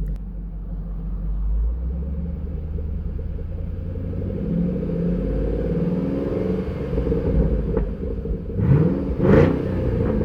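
2012 Shelby GT500's 5.4-litre supercharged V8 idling with a steady low rumble, given a quick rev about nine seconds in that rises and falls back to idle.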